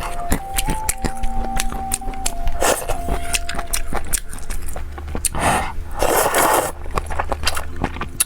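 Close-up eating sounds: chewing and crunchy bites with clicks of mouth and utensils, and a few longer noisy bursts about a third and two-thirds of the way in, over a simple background melody.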